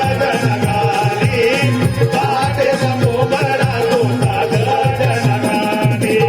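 Instrumental passage of Konkani naman folk music between sung verses: a held melody line over steady, regular drum strokes and rattling percussion.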